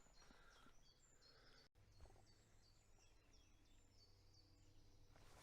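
Faint woodland birdsong: many short high chirps and twitters over near silence, with a momentary dropout of all sound about two seconds in.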